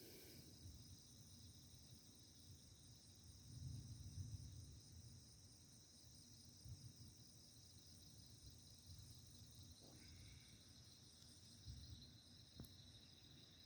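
Faint, steady high-pitched chorus of night insects chirring, with a brief low rumble about four seconds in.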